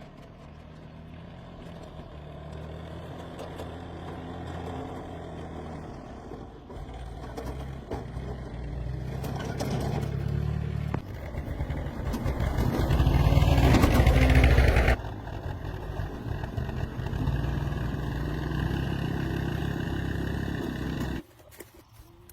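A motor vehicle engine running with a low, steady note that grows louder, loudest from about twelve to fifteen seconds in, then cuts off suddenly about a second before the end.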